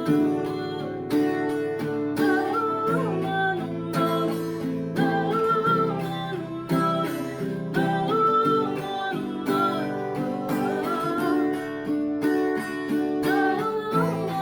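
Music: an acoustic guitar strummed in a steady rhythm, with a wavering melodic line above it, the wordless close of a live song.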